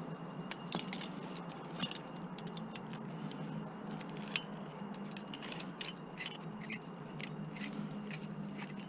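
Irregular small metal clicks and scrapes of a screwdriver working at a screw that only spins in place in a small appliance's housing, over a low steady hum.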